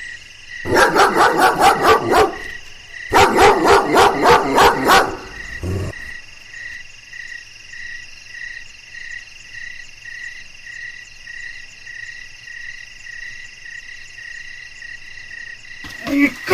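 A dog barking in two quick runs of rapid barks in the first few seconds, then stopping. A steady chirping repeats about twice a second throughout.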